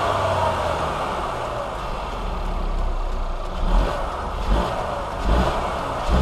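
2016 Mercedes C300's 2.0-litre turbocharged inline four-cylinder engine running, heard with the hood open, with a few low thumps in the second half.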